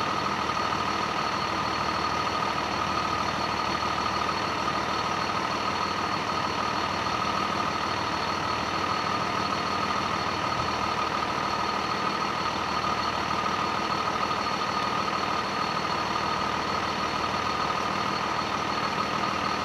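A heavy vehicle's engine idling steadily, with a constant high whine over the drone.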